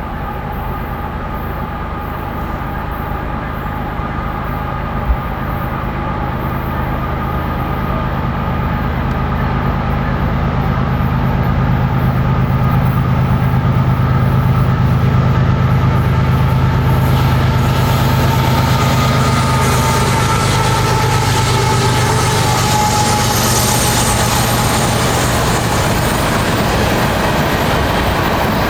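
Canadian National freight train passing, its diesel locomotives' steady low drone swelling to its loudest around the middle. It is then overtaken by a broad hiss and rattle of the cars' wheels rolling on the rails.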